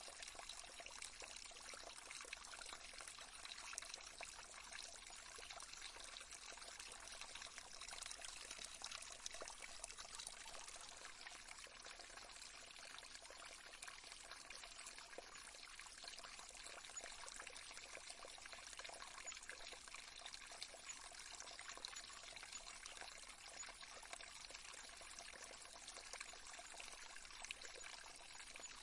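A small stream trickling and babbling, faint and steady.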